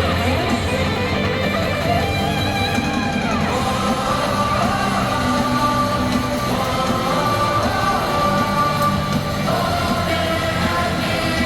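Rock band music with electric guitar strumming.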